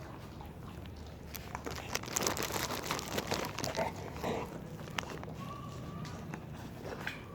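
Dogs crunching on hard snacks, a quick run of crisp crunches and chewing clicks that peaks between about two and four seconds in. A short faint whine-like tone follows.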